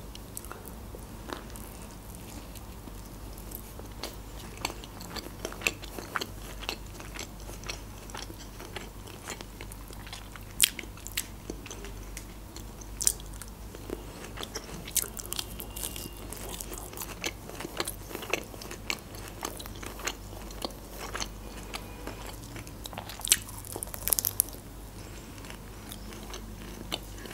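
Close-miked mouth sounds of a person biting and chewing a salmon-wrapped shrimp sushi, with many short crunches and wet clicks, over a faint low hum.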